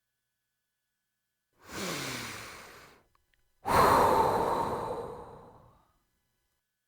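A person sighing twice: a short sigh with a bit of voice that falls in pitch, then about a second later a louder, longer breathy sigh that fades out.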